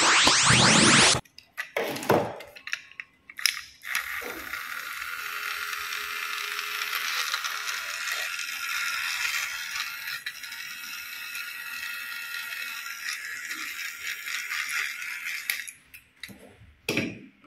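A loud rising swoosh sound effect cuts off about a second in. It is followed by a few clicks and clatters, then the steady whir and rattle of a small battery-powered toy train running on plastic track for about twelve seconds, with more clicks near the end.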